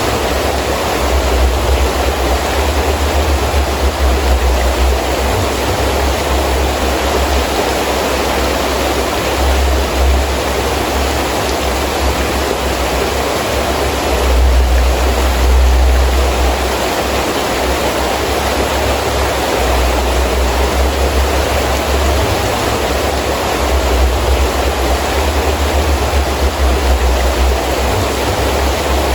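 Heavy rain falling steadily, with gusty wind that comes and goes as a low rumble, strongest about halfway through.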